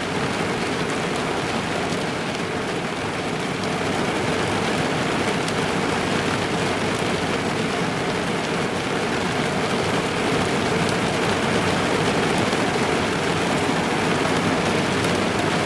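Steady rain drumming on a car's roof and windows, heard from inside the car: a dense, even patter with many small drop ticks.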